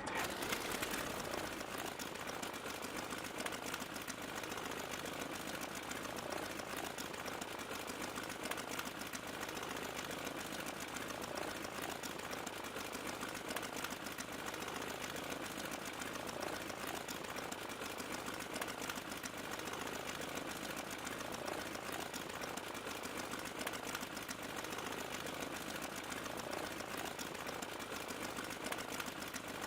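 A small machine running steadily with a fast, even mechanical clatter.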